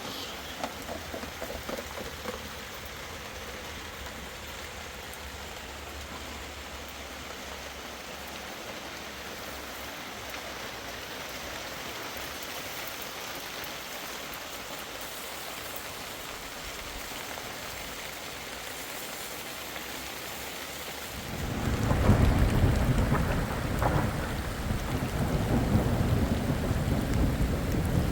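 Steady heavy rain hissing, then about three quarters of the way through a loud, deep rumble of thunder breaks in and keeps rolling.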